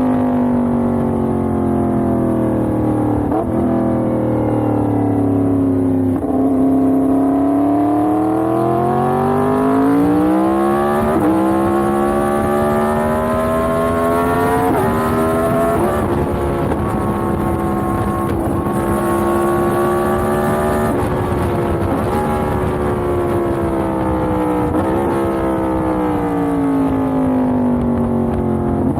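Yamaha MT-10's crossplane inline-four engine pulling on the road, its pitch rising and falling with the throttle. There are a few quick gear changes, the biggest about eleven seconds in, a steady cruise through the middle, and a long easing-off with falling pitch near the end.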